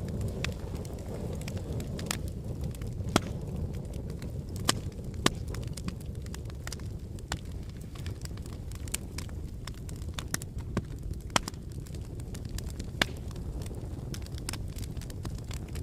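Wood fire burning in a fireplace: a steady low rumble of flames with irregular crackles and pops, and a few louder snaps scattered through.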